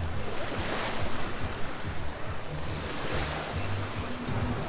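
Rushing water noise that swells and falls, like surf or water pouring at a water park, with wind buffeting the microphone.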